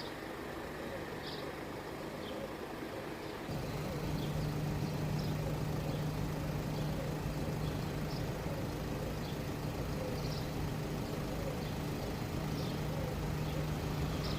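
Steady low vehicle hum that steps up louder about three and a half seconds in and then holds, with faint short high chirps scattered over it.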